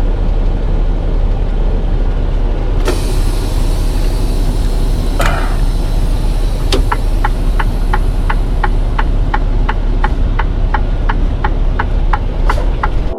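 Semi truck's diesel engine running steadily, heard inside the cab, with a sudden hiss about three seconds in. From about seven seconds in, a turn-signal relay clicks evenly, about three clicks a second.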